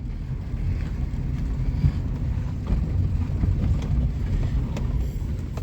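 Road and engine rumble inside a 1998 Suzuki Baleno's cabin while driving over uneven road, with a few faint knocks from the bumps. No rattle is left: the worn bonnet hinge that caused it has been padded with a seal.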